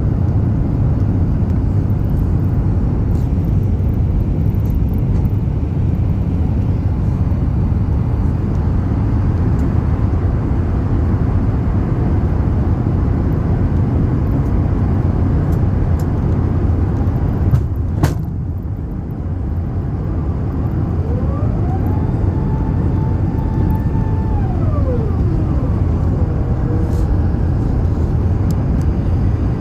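Steady low rumble of the Airbus A380 in flight on its descent, engine and airflow noise as heard on board. About 18 seconds in there is a sharp click, and a few seconds later a whine rises, holds for about two seconds and falls away.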